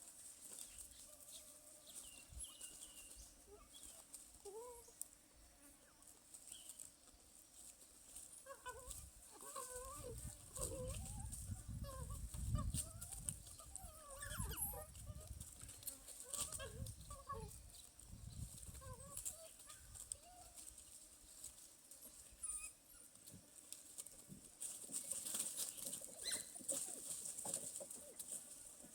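A pack of dholes (Asian wild dogs) giving many short, squeaky yelps and whistles that rise and fall in pitch, thickest in the middle stretch, over a steady high insect hiss.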